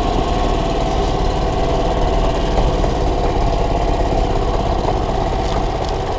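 Gas engine of a 1993 Club Car golf cart running steadily. The owner suspects a vacuum leak where the carburetor bolts to the engine.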